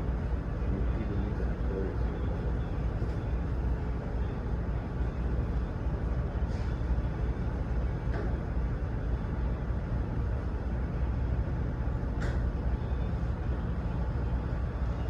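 Idling truck engine with a steady low rumble, and a few faint clicks scattered through it.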